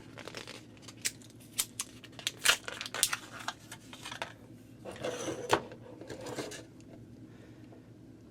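Small plastic and rubber parts of a toilet fill valve clicking and tapping as they are handled: the cap and a replacement seal being fitted. A longer rustling, rubbing stretch follows about five seconds in.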